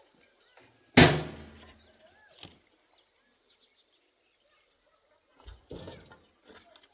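A single hard knock about a second in that rings out over about a second, then a fainter knock and, near the end, a short cluster of knocks and scuffs.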